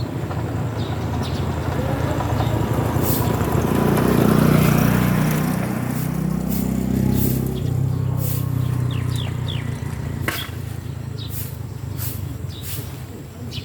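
A motor engine running steadily, growing louder and shifting in pitch about four to seven seconds in, then settling again. Short high chirps and a few sharp clicks sound over it.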